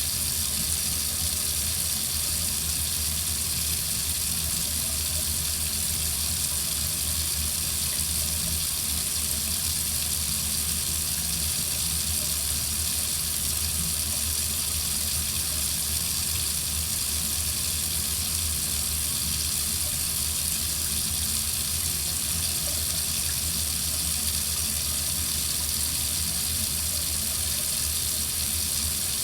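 Water running steadily from a faucet, an unbroken stream with a constant hiss.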